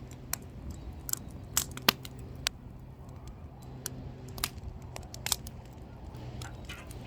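Burning firewood crackling, with sharp irregular pops; the loudest come a little under two seconds in.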